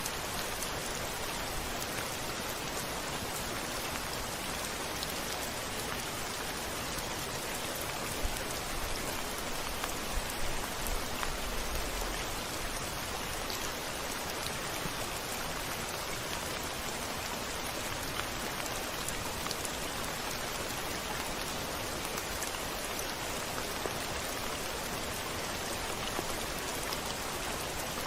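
Steady rain falling on a window, an even dense hiss, with a brief low rumble of thunder about nine to twelve seconds in.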